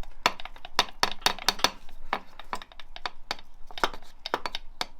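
Irregular sharp clicks and taps of metal parts and hand tools being handled while engine parts are fitted, about twenty in a few seconds.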